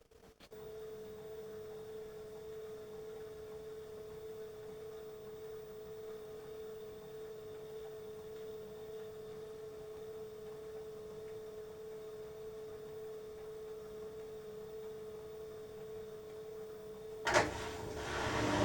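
Beko washing machine mid-cycle giving off a steady hum with a clear tone, starting just after the start. Near the end a sudden loud clunk, then louder churning noise as the machine starts up again.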